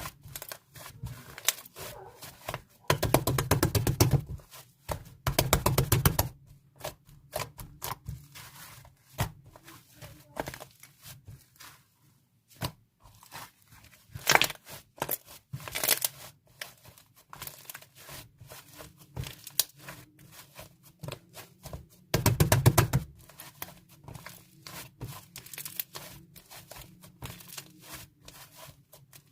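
Slime being squished and stretched by hand: scattered sticky clicks and pops, with louder runs of rapid crackling about three and six seconds in and again about two-thirds of the way through.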